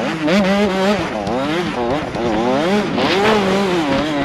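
85cc two-stroke motocross bike engine heard from the rider's head camera, its pitch rising and falling several times as the throttle is opened and closed and the gears change.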